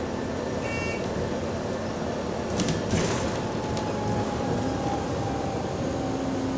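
Interior sound of a London bus in service with an exhaust leak: a steady engine-and-road rumble. A short electronic beep sounds about a second in, and there is a brief rattle near the middle.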